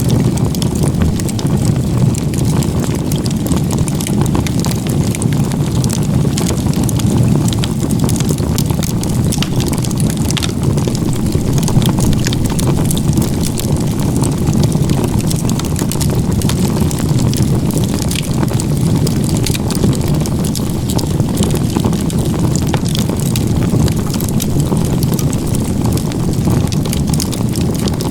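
Firewood stacked in a log-cabin (igeta-gumi) crib burning in a large fire: a steady low rush of flames with frequent small crackles and pops throughout.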